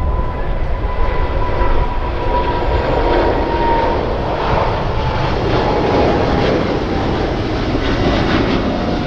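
Jet airliner engines running: a steady, loud rumble with a high whine on top that drops slightly in pitch over the first few seconds.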